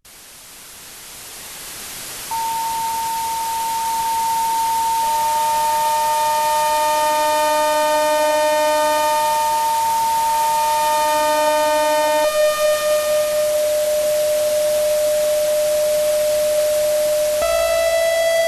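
Synthesized recreation of sleep-paralysis sounds: a rushing hiss that fades in from silence and swells, with steady whistling tones layered over it. One tone comes in about two seconds in and a lower one a few seconds later. The higher tone drops out around the middle, and near the end the pitch steps up with new overtones.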